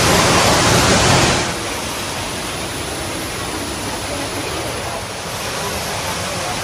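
Creek water rushing over a weir as a steady hiss, louder for the first second and a half, then settling to a lower, even level.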